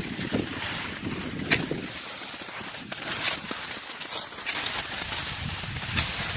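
Wind buffeting the microphone outdoors, a steady rushing hiss with low rumble, with a few sharp clicks.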